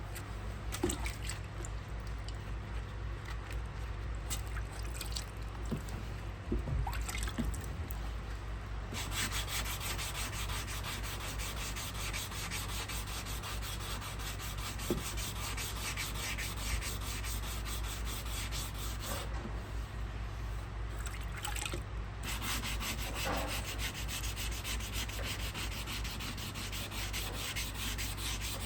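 Sanding on a car bumper's scratched paint: a steady rasping rub starts about nine seconds in, stops briefly a little past halfway, then resumes, over a steady low hum.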